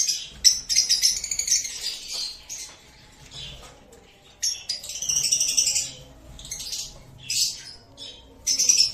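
Lovebirds chattering: quick high-pitched chirps and squeaks in bursts of one to two seconds, with short pauses between them.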